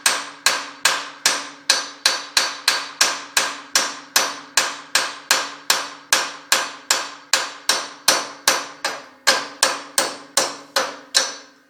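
Hammer driving a broken wheel stud out of a 1997 Lexus LX450 wheel hub: steady blows, close to three a second, each with a metallic ring. The stud is slowly working loose under the blows.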